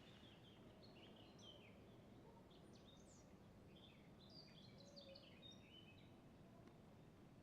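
Faint songbird chirping and twittering: many quick, high notes and short trills in irregular bursts over low background noise. The green woodpecker's laughing call is not clearly among them.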